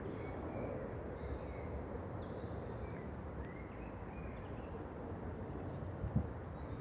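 Outdoor ambience: a steady low background rumble with faint, scattered bird chirps, a single faint click about halfway through and a soft low thump near the end.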